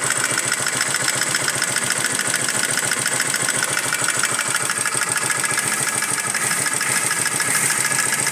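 Small motorcycle engine idling steadily with a fast, regular ticking knock. This is the strange engine noise being diagnosed.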